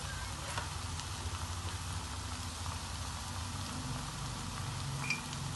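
Fenugreek leaves and potatoes frying in oil in a pot, a steady sizzling hiss with a few faint ticks. The oil has separated at the sides, the sign that the greens are well fried down.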